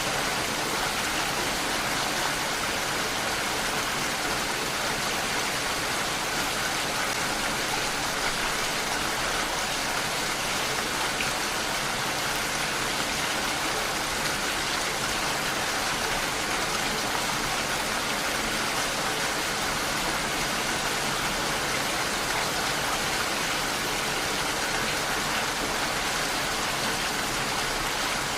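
Steady rain falling, a continuous even hiss of drops with no breaks or changes.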